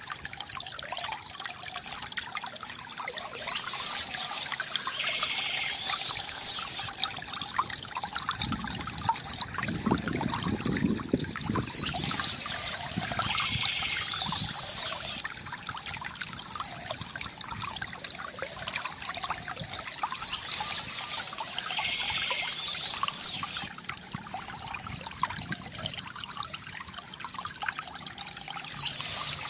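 Small stream trickling and gurgling steadily over stones, with a fuller, deeper gurgle for a few seconds a third of the way in and a brighter, hissier patch returning about every eight seconds.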